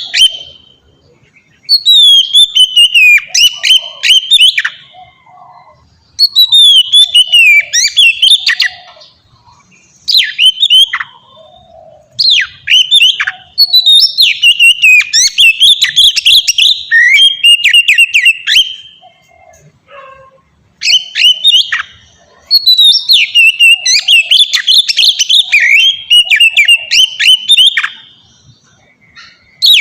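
Oriental magpie-robin (kacer) singing loudly in long, varied phrases of rapid whistled and warbled notes, broken by short pauses of about a second.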